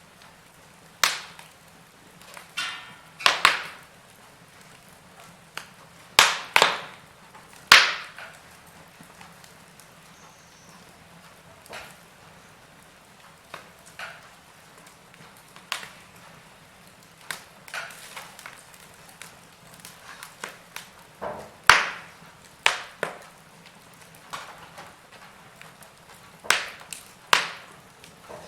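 Wood fire in a fireplace crackling: irregular sharp pops and snaps of varying loudness over a faint steady hiss, with the loudest snaps bunched in the first third and again in the later part.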